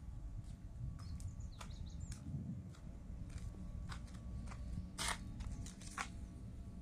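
Wood campfire crackling: irregular small snaps and pops over a low steady rumble, with two louder pops about five and six seconds in.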